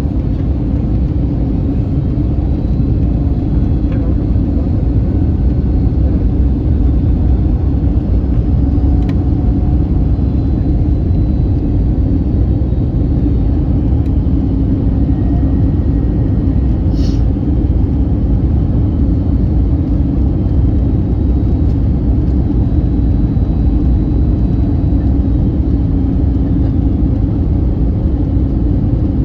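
Steady cabin noise of an Airbus A321neoLR in flight: a low rumble of airflow and engines with a constant hum, and a brief high sound about halfway through.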